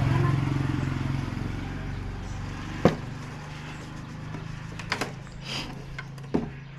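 A motor vehicle engine running steadily and fading away as it passes. A few sharp clicks sound over it.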